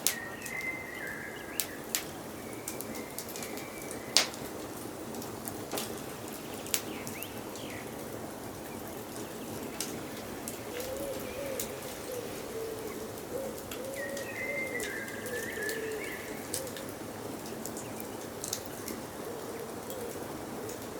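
Wood fire crackling with frequent sharp pops over a steady hiss, while forest birds sing. A high whistled phrase comes near the start and again about two-thirds of the way through, and a lower warbling call runs through the middle.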